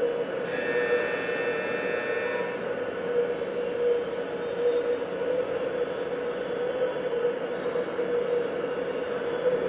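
Steady, loud industrial drone of waste-incinerator machinery with a strong low hum. For about two seconds near the start, a cluster of high, ringing metallic tones sits over it.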